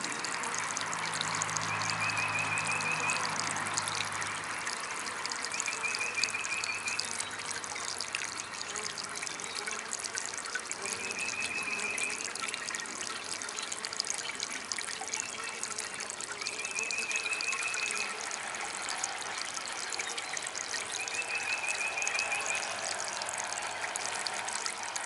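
Small DIY water fountain trickling steadily. A short high trill repeats about every five seconds, and a low hum runs through the first part.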